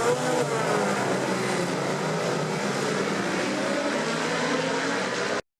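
Racing motorcycle engines running at high revs on track, their pitch swooping as they pass, ending in an abrupt cut to silence near the end.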